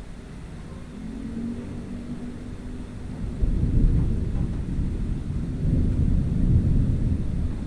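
Rolling thunder: a low rumble that builds about a second in, swells sharply louder about three and a half seconds in, and keeps rolling.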